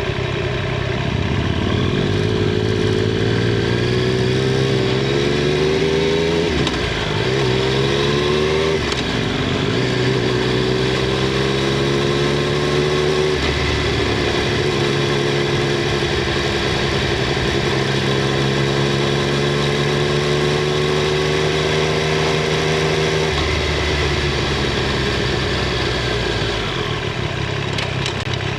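Triumph Street Triple 765 R's inline three-cylinder engine and exhaust under way. It rises in pitch through the gears, with three upshifts in the first half, then holds a nearly steady cruise. About 23 seconds in the throttle rolls off and the pitch drops.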